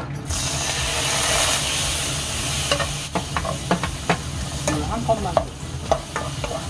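Soy sauce poured into hot cooking oil in a stone-coated wok, sizzling loudly as it hits. About three seconds in the sizzle eases and chopped carrot and onion are tipped in and stirred with a wooden spatula, with clicks and scrapes of the pieces and spatula against the pan.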